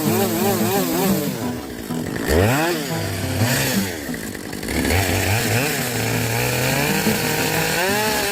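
Chainsaw engine revving up and down several times between idle and high throttle, then rising and holding at a steady high rev near the end.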